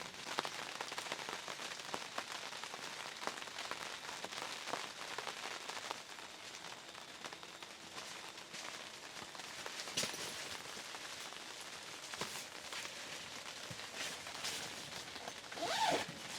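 Steady rain, with many small drops ticking on a surface and a sharper tap about ten seconds in.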